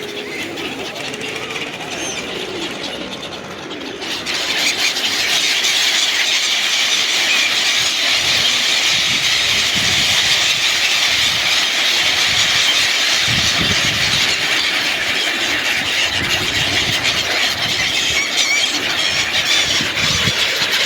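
A large flock of birds calling all at once in a dense, high squealing chatter that swells sharply about four seconds in and then holds steady.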